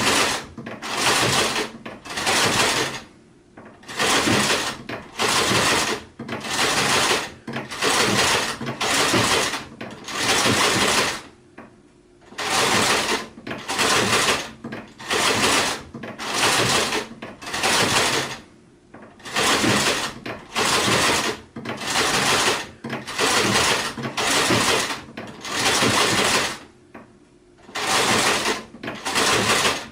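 Sewing machine stitching in short stop-start bursts, about one a second, each lasting half a second to a second, with a few longer pauses between runs.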